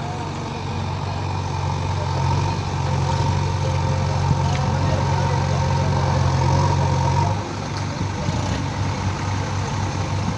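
Tractor's diesel engine running steadily, growing a little louder, then dropping about seven seconds in to a quieter idle with separate, evenly spaced firing beats.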